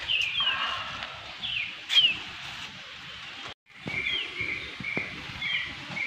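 Birds calling in the trees: short, falling chirps repeated about once a second over a steady outdoor hiss. The sound cuts out for a moment just past halfway.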